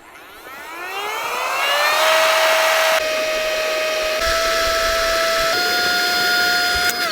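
Electric air pump inflating an air tent's beams: its motor winds up over about two seconds into a steady, loud whine that steps up in pitch a couple of times, then winds down and stops near the end.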